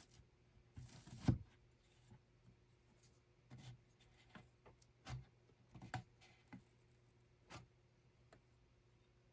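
Scattered soft knocks and clicks from hands handling small objects, irregular and unhurried. The loudest knock comes about a second in.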